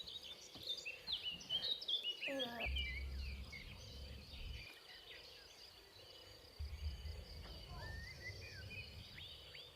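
Several birds chirping and calling, with a steady high insect whine underneath. There are two stretches of low rumble, one a few seconds in and one near two-thirds of the way through.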